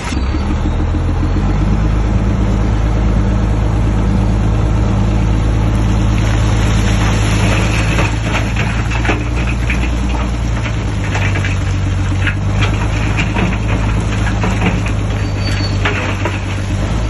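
Heavy diesel engine of a Shantui DH17C3 crawler bulldozer running steadily under work. From about six seconds in, an irregular clatter runs over it.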